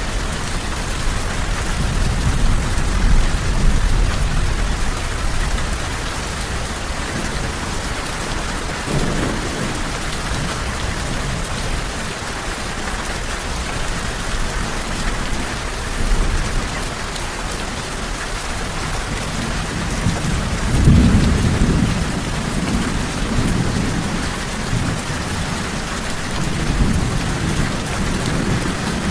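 Steady heavy rain falling, with rolls of thunder rumbling low beneath it; the loudest roll comes about two-thirds of the way through and rumbles on for several seconds.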